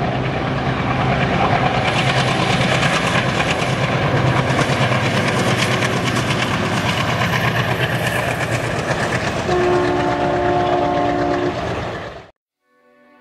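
Diesel-hauled passenger train passing close by: a steady engine drone under dense clickety-clack of wheels over the rails. About two-thirds through, the locomotive's horn sounds a chord for about two seconds. The sound cuts off suddenly near the end.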